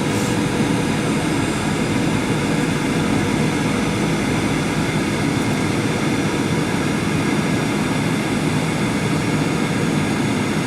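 Boeing 737-800 jet engines and airflow making a steady drone heard from inside the cabin, with several steady hum tones over a constant rush of noise.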